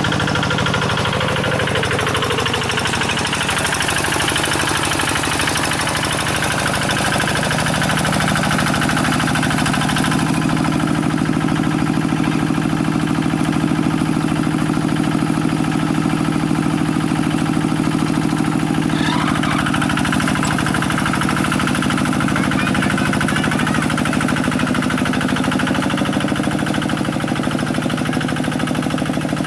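Quick G1000 hand tractor's single-cylinder diesel engine running steadily, working in mud. A few seconds in, its pitch dips and climbs back, then holds even.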